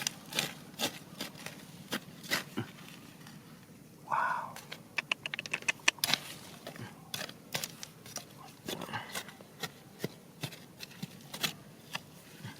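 Irregular sharp clicks and knocks of stones and rock struck and shifted during digging, with a quick rattle of about ten clicks around five seconds in.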